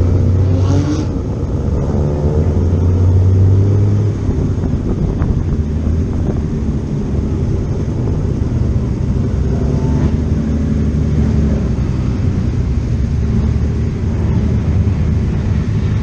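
Classic racing car engines running at low revs, a deep steady rumble whose pitch shifts about four seconds in.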